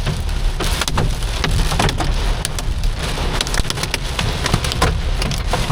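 Heavy storm rain pelting the car's roof, heard from inside the cabin as a dense hiss full of sharp, irregular hits, over the low rumble of the car.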